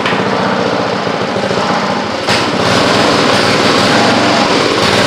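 Craftsman rototiller's Briggs & Stratton small engine running just after starting, with the choke on. It runs steadily and gets louder a little over two seconds in.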